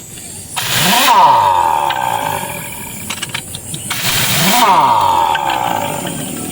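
Pneumatic impact wrench run in two bursts, each starting with a hiss of air and a whine that rises and then dies away, as it spins off truck wheel nuts.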